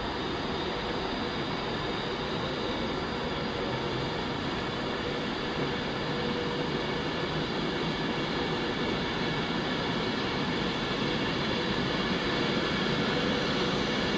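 Train running at a station platform: a steady rumble with a few held tones, slowly growing louder.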